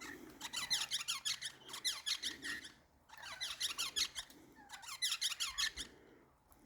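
Birds calling in fast, squeaky chattering bursts of rapid high chirps, with short pauses between the bursts.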